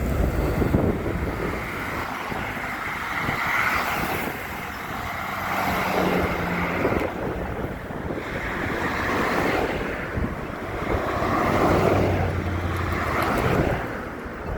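Strong wind buffeting the microphone, rising and falling in gusts, with road traffic passing.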